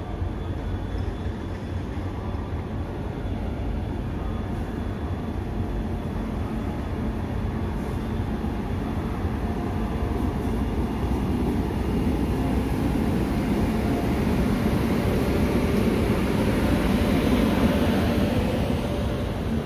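Passenger express hauled by a WAP-7 electric locomotive pulling into a station: the locomotive and then the coaches rumble past on the track, growing louder over the second half as the coaches go by.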